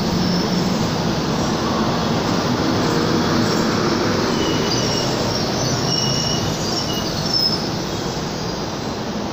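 Frecciarossa high-speed electric train rolling along a station platform: a steady rumble of wheels and running gear, with faint high-pitched squeals here and there midway.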